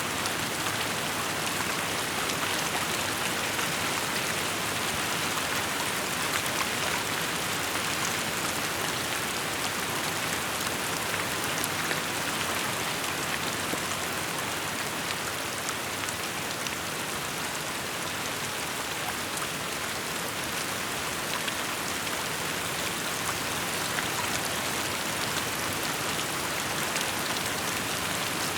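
Steady rainfall: a dense, even hiss of drops falling on surfaces, with scattered individual drop ticks.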